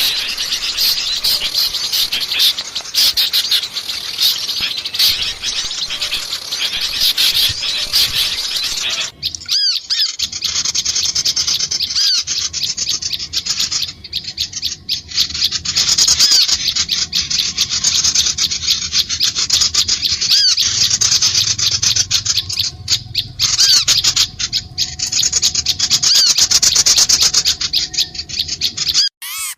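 Small birds of several kinds calling noisily together, with dense overlapping high chirps and twitters. The sound changes abruptly about nine seconds in to a different stretch of rapid, repeated high chirps. This is a small-bird lure recording (suara pikat) used to draw small birds in.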